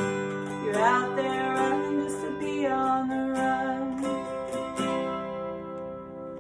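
Acoustic guitar strumming in an instrumental passage, with a sustained melody line that slides up in pitch about a second in. The music gradually gets quieter toward the end as the song closes.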